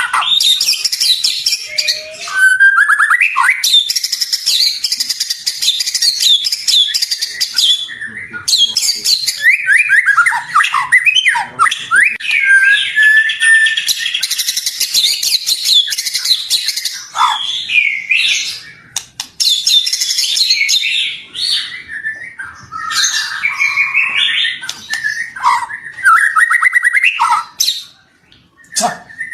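White-rumped shama singing a long, rapidly varied song of whistles, trills and chattering notes, almost without a break, dropping out briefly near the end.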